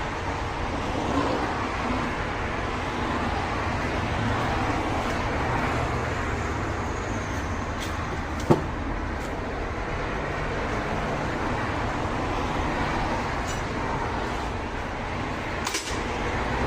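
Steady running noise of a motor vehicle, with a single sharp click about halfway through.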